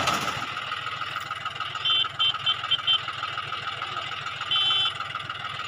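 Tractor engine running steadily with an even, rapid throb. A sharp knock comes right at the start, and a few short high beeps sound about two seconds in and again about four and a half seconds in.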